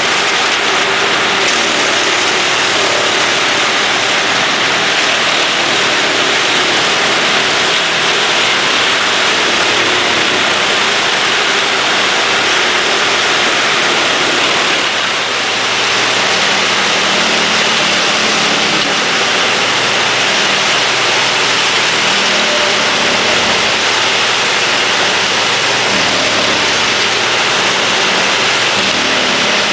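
Erjo 9/93 wood chipper working, with forwarder diesel engines running: a loud, steady noise that dips briefly about halfway through.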